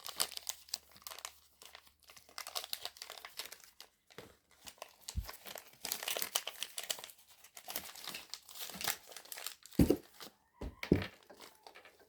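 Small plastic wrappers and packaging crinkling and rustling as they are handled, with a few short knocks, two of them close together near the end.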